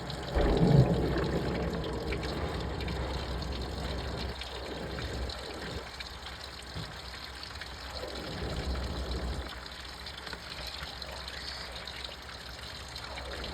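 Front-loading washing machine running a wash: water sloshing and trickling inside the drum over a low, steady motor hum, with a louder surge about half a second in.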